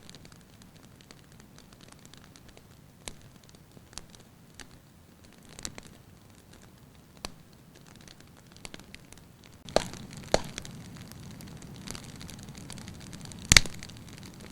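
Firewood burning in a fireplace, crackling lightly with scattered sharp pops over a soft hiss. About two-thirds through the hiss grows louder and the pops come more often, with the loudest pop near the end.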